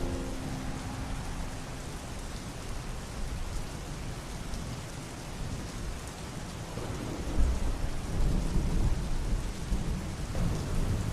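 Steady rain falling, with a low rumble of thunder rolling in about seven seconds in and carrying on to the end.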